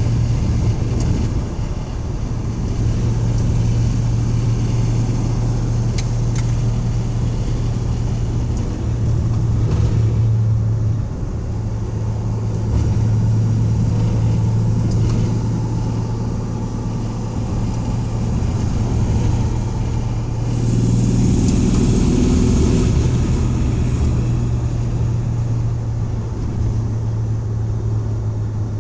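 1984 Dodge van's engine and road noise while driving: a steady low drone, with a louder stretch of extra rumble and hiss about two-thirds of the way through.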